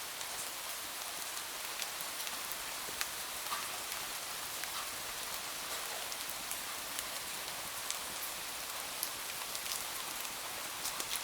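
Steady rain, an even high hiss, with scattered sharp ticks throughout.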